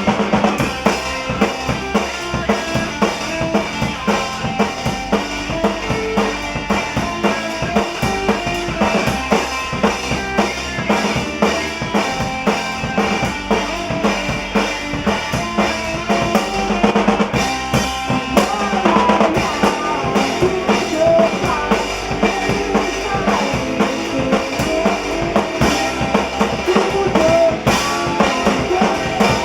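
Rock band playing live, a drum kit's kick and snare driving a steady beat under guitars and bass. Near the middle a high melodic line with bends and wavering pitch comes in over the band.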